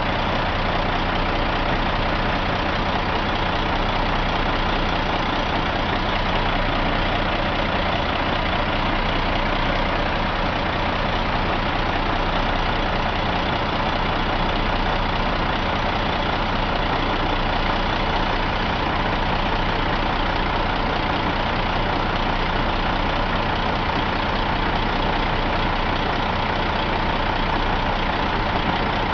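Caterpillar C13 inline-six diesel engine idling steadily, with an even, unchanging beat throughout.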